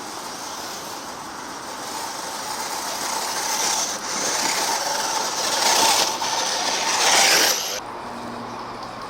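Scale RC crawler truck's electric motor and geared drivetrain running under throttle, building louder over several seconds with a faint whine, then cutting off suddenly near the end as the throttle is released.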